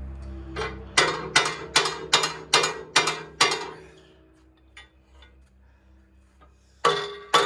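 A hammer striking a steel part, about four ringing blows a second in a quick run, then a pause and another run of blows near the end.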